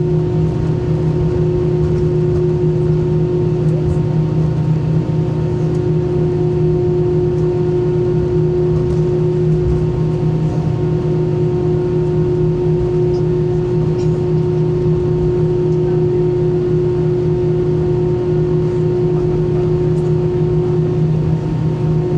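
Inside an Airbus A320 cabin on the ground after landing, a steady, unchanging drone with a constant low hum. The engines are at idle during the taxi to the gate.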